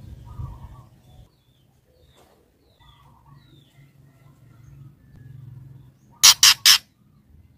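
Female white-rumped shama calling: a few faint soft chirps, then three loud, harsh, rasping notes in quick succession near the end.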